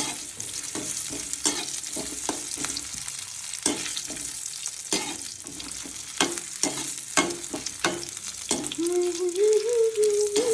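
Food sizzling in a karahi while a utensil stirs it, clicking and scraping against the metal pan many times. Near the end, a wavering tone joins in.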